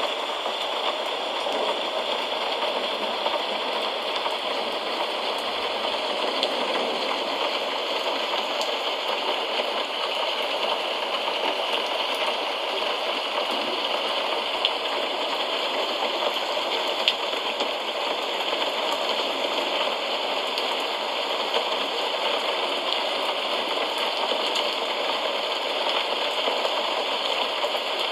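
Steady rain falling: an even, unbroken hiss with a few faint drop ticks here and there.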